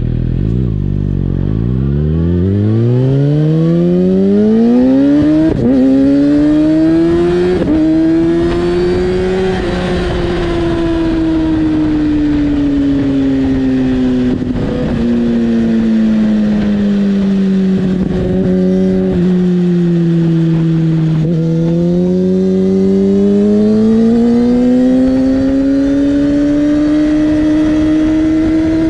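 Kawasaki ZX-6R's inline-four engine through an Akrapovic exhaust with the dB killer taken out and the butterfly valve disabled. Its pitch climbs steadily for about ten seconds, sinks slowly, then climbs again, with a few short cracks along the way.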